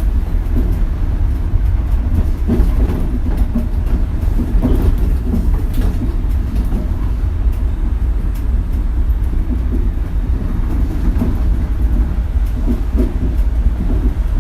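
Shonan Monorail suspended car heard from inside while running along the line: a heavy, steady low rumble with scattered knocks and rattles from its rough ride.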